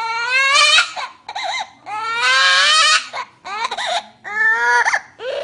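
Parrot mimicking a young child crying: five cries in a row, each rising in pitch, the three longest lasting about a second each.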